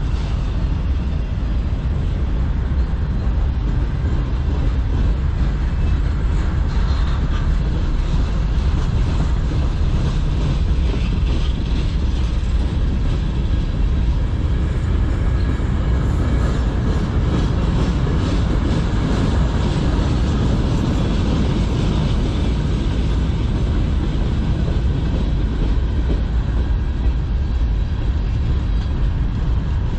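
Freight train cars rolling past close by: a steady rumble of steel wheels on the rails, with repeated clacks as the wheels cross rail joints.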